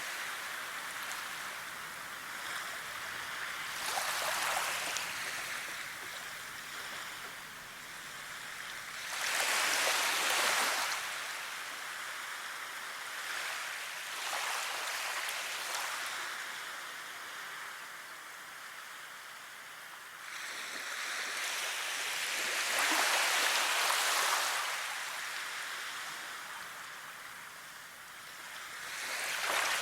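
Steady rush of running water, swelling into louder surges every five to eight seconds and easing off between them.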